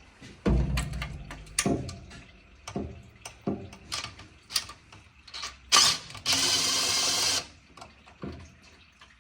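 Metal hand tools clanking and rattling as a toolbox is rummaged through for a socket swivel, with a heavy thump about half a second in and a steady rushing noise lasting about a second just after six seconds in.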